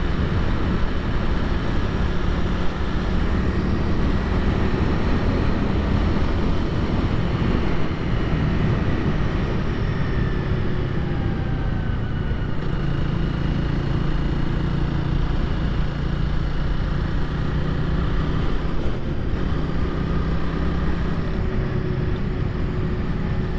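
Honda Rebel 300's single-cylinder engine running under way through a series of bends, its pitch shifting up and down a few times with throttle changes, over a steady rush of wind.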